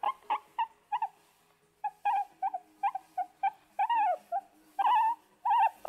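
Guinea pigs squeaking: a run of short, high squeaks, about three a second, with a few longer rising-and-falling whistling calls near the middle and the end. The squeaks pause for about a second early on.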